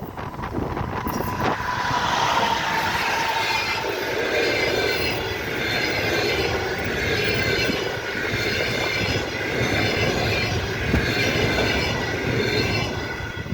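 Train rolling past: a steady noise of wheels on the rails, with a high, wavering squeal from the wheels.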